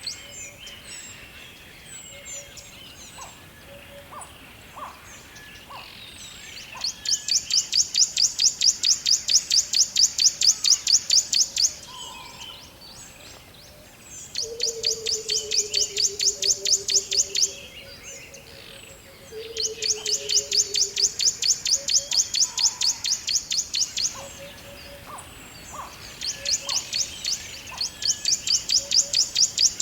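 Forest ambience with birds calling: a loud, high, rapid trill of many pulses repeats four times, each lasting a few seconds, starting about seven seconds in. Between the trills come short scattered chirps, and twice near the middle a low whistled note slides slightly downward.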